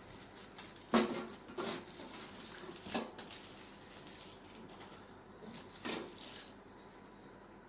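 Handling noises from unpacking a barbecue grill: a few separate knocks and clatters of parts being moved, the loudest about a second in.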